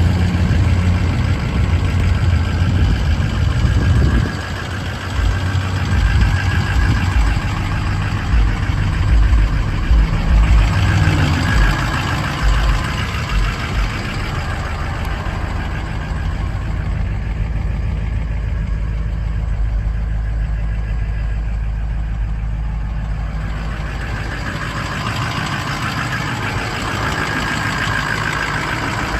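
Ford 6.0 Power Stroke V8 turbo-diesel truck engine running, uneven and louder in the first half, then settling into a steady idle about halfway through.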